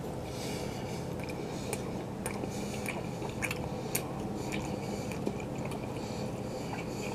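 A person chewing a bite of chicken sausage, with faint wet mouth clicks scattered through, over a steady low hum.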